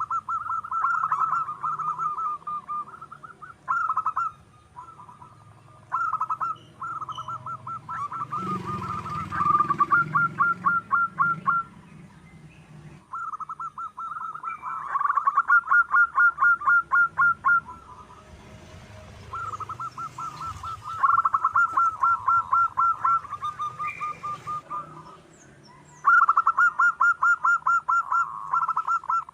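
Zebra dove (perkutut) singing: repeated bouts of rapid, evenly pulsed cooing notes, each bout lasting a few seconds with short pauses between.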